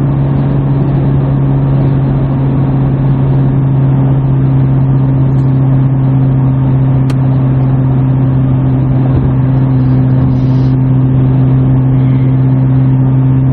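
Exhaust drone of a 2017 Subaru Forester's naturally aspirated 2.5-litre flat-four with a muffler delete, heard inside the cabin at a steady highway cruise: a steady low hum over road noise.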